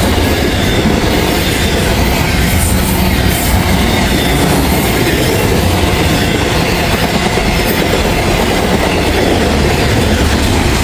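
Container cars of a Norfolk Southern intermodal freight train rolling past close by: a steady, loud rumble and clatter of steel wheels on the rails.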